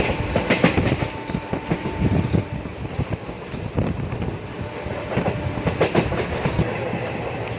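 Railway train running on the track: a steady rumble with the irregular clickety-clack and knocking of wheels over the rails.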